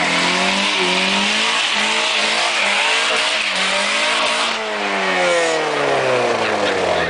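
Honda Civic's B16A1 four-cylinder engine revving hard in a burnout, the revs rising and dipping repeatedly over a loud hiss of spinning, screeching tyres. About four and a half seconds in, the tyre noise thins and the revs fall away steadily.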